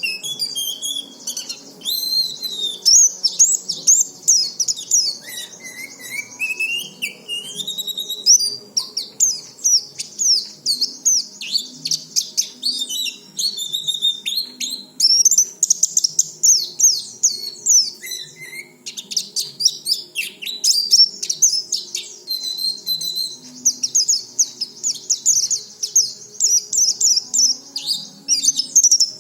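White-eye (pleci) singing a long, unbroken run of quick high chirps and twittering phrases, with a few slurred whistles rising and falling in pitch.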